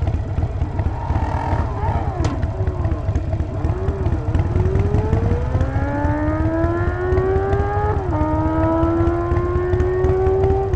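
Harley-Davidson Sportster 48's 1200 cc V-twin running under way, its low exhaust pulse steady underneath. A whine rises in pitch as the bike accelerates, drops suddenly at an upshift about 8 seconds in, then climbs again and drops at a second shift near the end.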